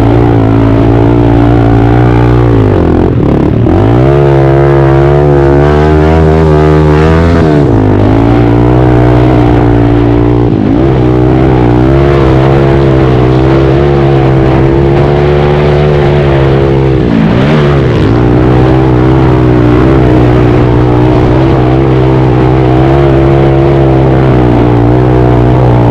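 Pit bike's small single-cylinder four-stroke engine running loud at high revs under throttle. Its note drops and climbs back about three times as the throttle is rolled off and opened again.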